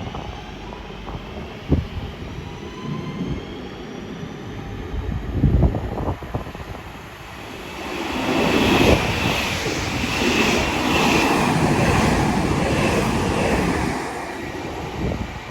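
Passenger train running through the station: low rumble at first, then a loud rush of wheels on rail with a steady high whine for about six seconds in the second half, dying away near the end. A few low thumps early on.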